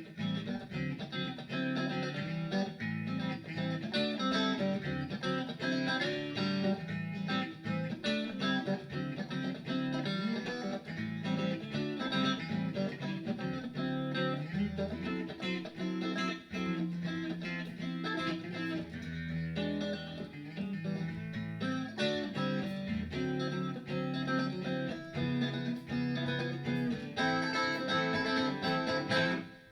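Guitar playing a bluesy opening with plucked notes and chords.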